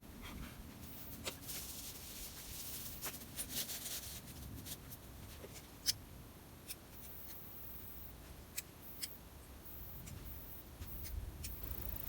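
Rustling and scraping from handling dry kindling at a campfire being relit, with scattered small sharp clicks and snaps; the loudest snap comes about halfway through.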